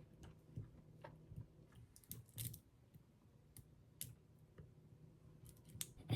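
Faint, scattered clicks and soft rustles of small objects being handled, with one sharper knock near the end.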